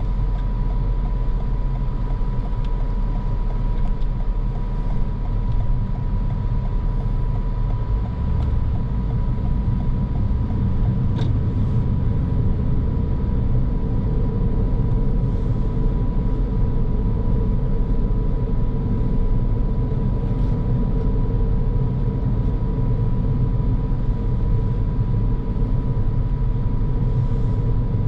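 Car being driven on the road: steady tyre and engine noise, with a thin steady whine over it and a single click about eleven seconds in.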